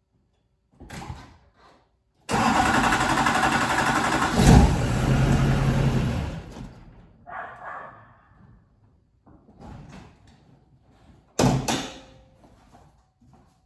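A Duramax diesel V8 being started: a sudden loud start-up with a louder surge partway through, fading away after a few seconds. Faint knocks follow, and there is a sharp knock about two-thirds of the way through.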